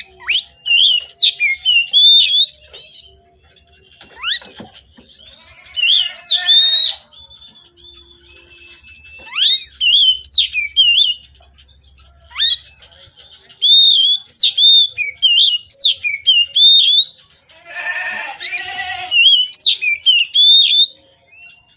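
Oriental magpie-robin singing: repeated bursts of quick, loud whistled phrases with short pauses between them, and twice a harsher, rasping passage.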